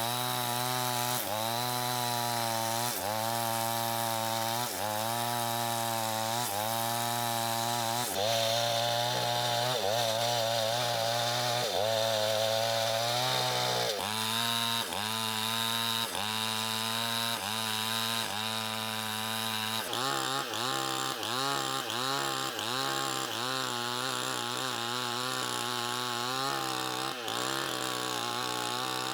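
Chainsaw running under load while cutting wood, its engine pitch dipping and recovering about once a second as the chain bites. About two-thirds of the way through, the dips come quicker and shorter.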